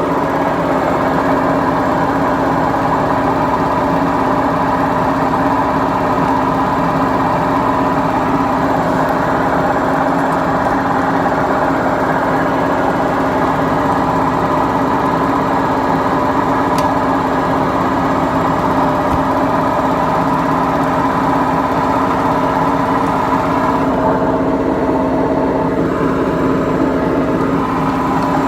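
Beko washing machine running with a loud, steady mechanical drone made of several held tones from its worn drum bearings; the sound thins a little near the end.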